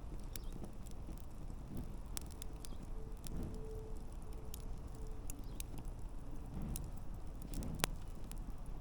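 Wood campfire burning, with irregular sharp crackles and pops over a low steady rustle of flames; one louder pop near the end.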